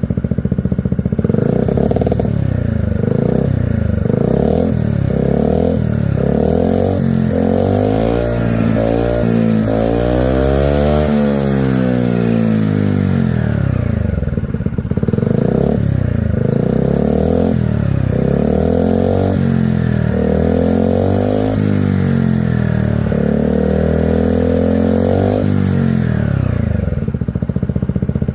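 Honda PCX125 scooter's single-cylinder engine running through an IXIL aftermarket silencer, its exhaust note rising and falling repeatedly with the throttle. About halfway through comes one longer climb and fall.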